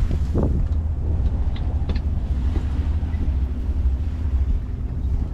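Steady low rumble of a boat's engine running, with a faint steady hum over it.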